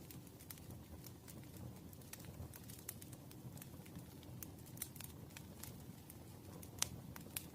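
Campfire crackling: a low steady rumble of burning wood with frequent small pops and snaps, one sharper pop about a second before the end.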